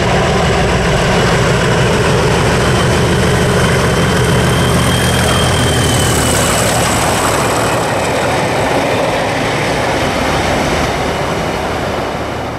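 Yellow diesel-hauled test train passing close by: steady locomotive engine and wheel-on-rail noise, with a thin high whine over it, easing off a little near the end.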